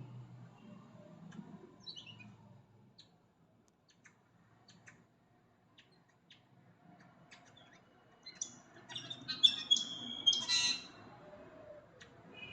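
A bird calling in short, high squawks and chirps, with a brief falling note about two seconds in and a louder run of calls from about eight and a half to eleven seconds in. Short clicks are scattered between the calls.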